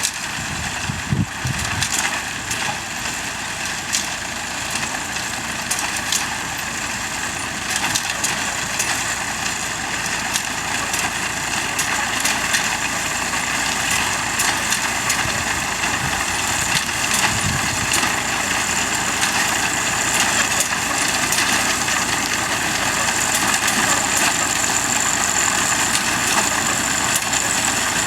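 Tractor engine running steadily while a binder's cutting and tying mechanism clatters, with scattered sharp clicks; the sound grows gradually louder.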